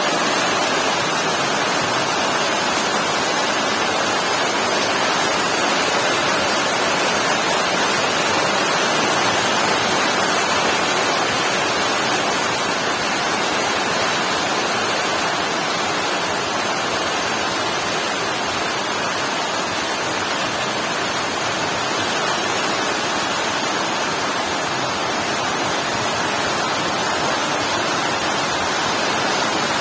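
Heavy rain pouring steadily, an even, dense hiss with no thunder claps.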